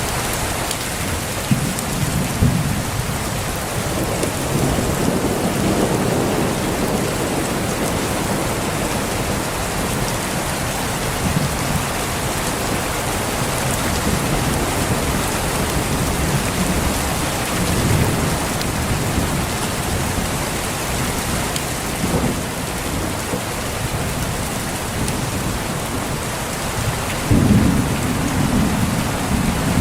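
Steady heavy rain falling, with thunder rumbling in low swells at several points and a louder roll near the end.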